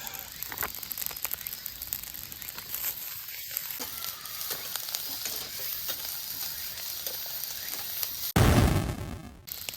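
Fried rice sizzling in a pan over a campfire, with a steady crackly hiss and small clicks of stirring. A sudden loud burst breaks in about eight seconds in and lasts about a second.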